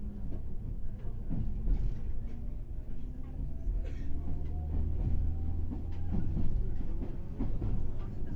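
Running noise heard inside a JR West 103 series motor car (MoHa 103) with MT55 traction motors while the train is moving. A steady low rumble of wheels on rail, with scattered clicks and a faint rising tone around the middle.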